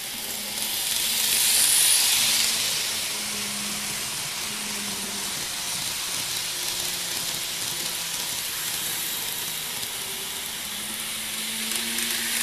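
N-gauge model train running on its track: a steady high hiss of wheels and motor with a faint low hum, swelling loudest about two seconds in as the train passes close.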